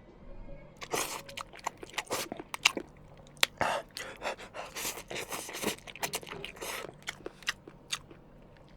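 A dog chewing and crunching something crisp, a dense run of irregular crackles and crunches that starts about a second in and dies away near the end.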